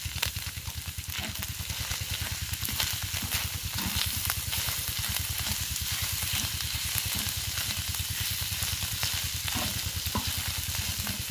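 Mutton keema sizzling and frying on a hot iron tawa as ginger-garlic paste is worked in, with a wooden spoon scraping and stirring it near the end. A low rapid throb runs underneath.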